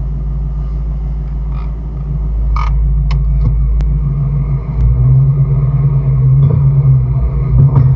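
Ford Shelby GT350's 5.2-litre flat-plane-crank V8 running with a steady low drone, louder from about five seconds in. A few short sharp clicks sound around three seconds in.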